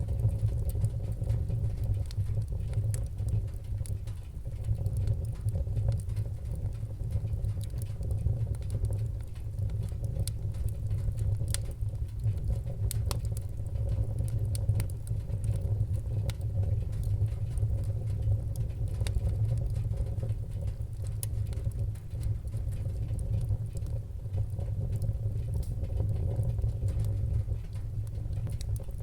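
Wood fire burning in a fireplace, crackling with many small irregular pops and a few sharper ones, over a steady low rumble.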